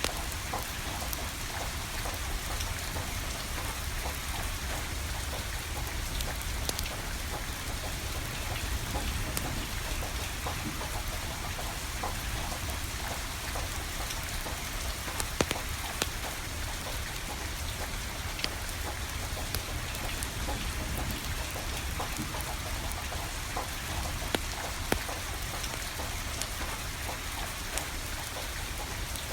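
Steady rain falling, mixed with a wood fire crackling: many small scattered pops and a few louder ones, one of them about halfway through and two more later on.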